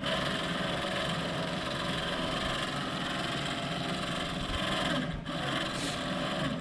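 A power saw running steadily, with a brief dip about five seconds in.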